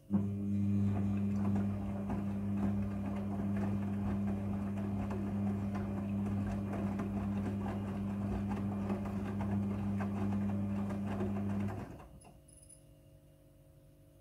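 Midea front-loading washing machine running a steady electrical hum with water rushing and crackling through it; it starts abruptly and cuts off after about twelve seconds.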